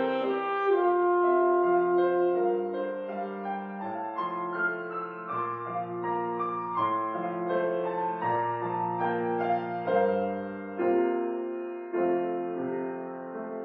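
Piano playing a slow, gentle closing passage of separate chords and notes, getting gradually quieter toward the end.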